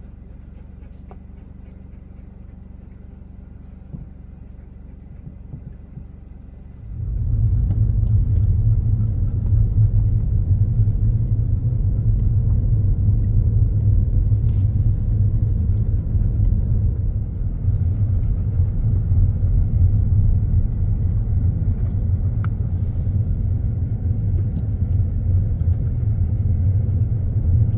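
Jeep heard from inside the cabin: a steady low engine hum at a standstill, then about seven seconds in a sudden step up to a much louder, steady low rumble of engine and road noise as it drives on.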